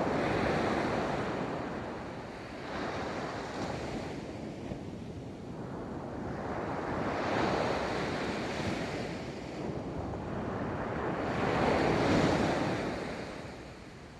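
Ocean surf rolling onto a beach: waves break and wash in, swelling and fading in slow surges several seconds apart, the loudest near the end.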